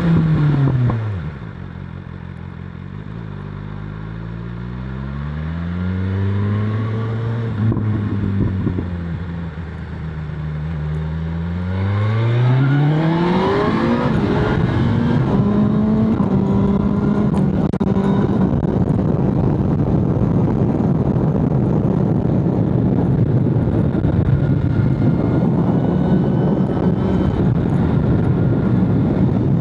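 BMW S1000RR inline-four engine under way. The revs drop off at the start, rise and fall gently twice, then climb steeply in a hard acceleration about twelve seconds in, and settle into a steady, even note.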